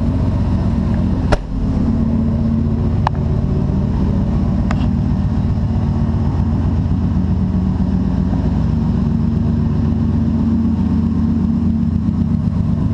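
A 1997 Chevrolet Silverado Z71's 350 Vortec V8 running at a steady idle through cat-back true dual straight pipes. A few faint clicks sound over it in the first five seconds.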